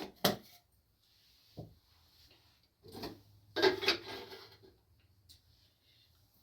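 Objects being handled: a couple of sharp knocks right at the start, a dull thud, then a louder clattering rustle about three and a half seconds in.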